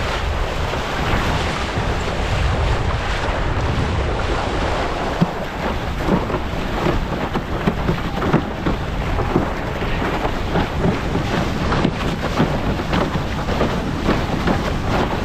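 Wind buffeting the microphone over water rushing under a windsurf board sailing through chop, with many short slaps of the hull on the chop from about five seconds in.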